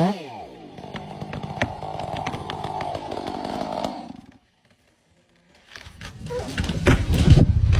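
Chainsaw cutting wood: the engine note drops in pitch at the start, then runs steadily with sharp ticks, cuts to silence for about a second midway, and comes back growing louder.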